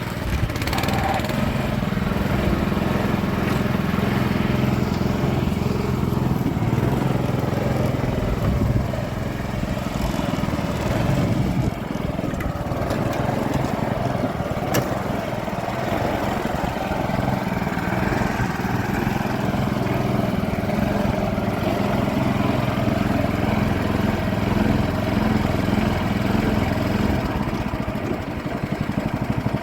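A small engine running steadily, with a brief dip in loudness about twelve seconds in.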